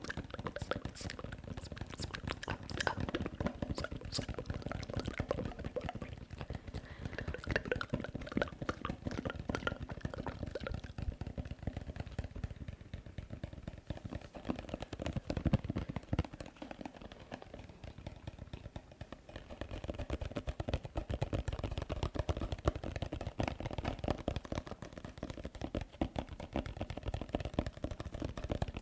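Close-miked ASMR tapping and wet mouth sounds: a dense, continuous run of quick clicks and smacks.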